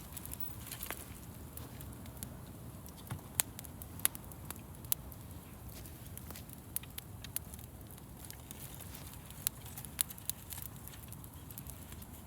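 Wood campfire crackling: irregular sharp pops and snaps, a few louder than the rest, over a low steady rush.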